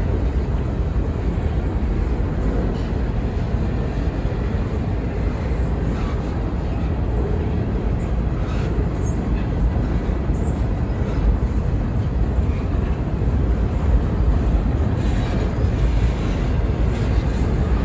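Freight train cars rolling past: a steady low rumble of wheels on rail, with a few faint clicks and clanks.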